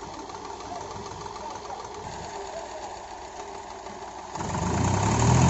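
Heavy-machinery diesel engine running with a fast, even clatter, then suddenly much louder about four seconds in.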